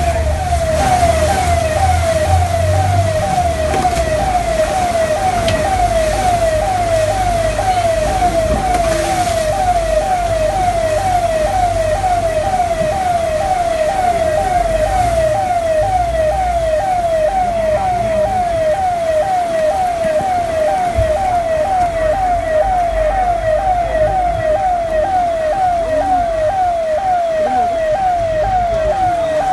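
An electronic siren sounding over and over, each cycle a quick rising sweep in pitch, about two a second, steady throughout, over a low rumble.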